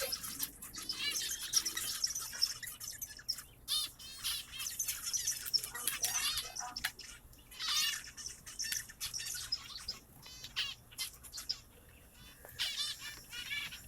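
A flock of small birds chirping and twittering, many rapid high chirps overlapping, with a brief thinning about three-quarters of the way through.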